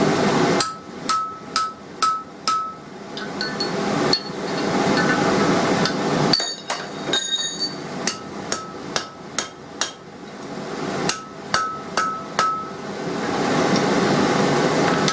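Blacksmith's hand hammer striking hot steel bar stock on an anvil, opening out a punched hole. The blows come in runs of about five or six, each with a short ringing note, separated by pauses and a steady rushing background.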